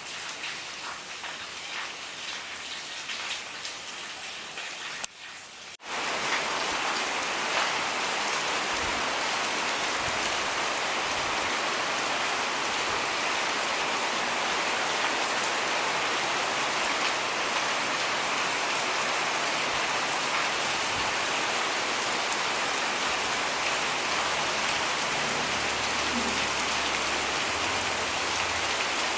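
Steady rain falling, a continuous hiss. About six seconds in it briefly drops out, then comes back louder and stays even.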